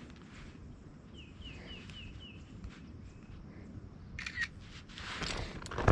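Quiet open-air ambience with a bird giving a quick run of about six short, even chirps a second in. Near the end come a sharp click and some knocks of gear being handled.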